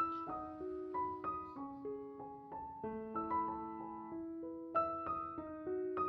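Background music: a gentle piano melody of single notes over sustained lower notes.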